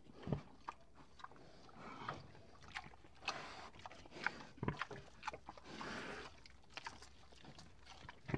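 A cow biting into and chewing a watermelon: irregular wet crunches and sharp cracks, with a few longer noisy swells.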